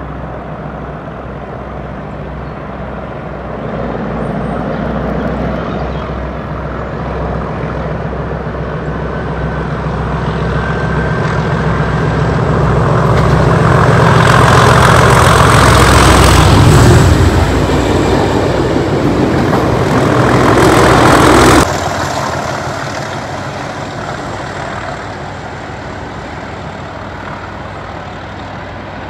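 Colas Rail Class 37 diesel locomotives' English Electric V12 engines running under power as the test train approaches, growing louder to a peak as it passes beneath along with the noise of the train on the rails. About three-quarters of the way through the sound cuts off sharply to a quieter engine sound from the train going away.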